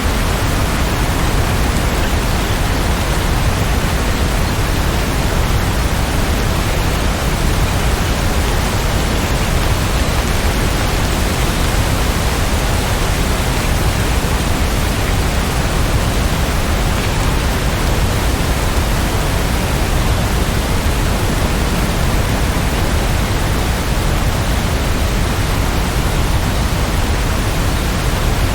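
Steady, dense rainfall: an even rushing hiss with no separate drops or thunder standing out.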